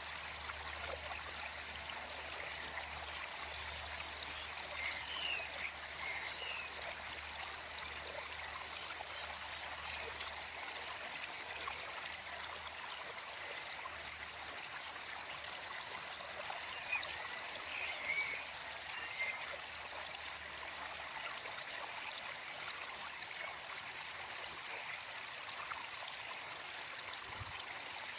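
Gentle forest stream running steadily, with a few brief bird chirps above it about five seconds in, around ten seconds, and again past the middle.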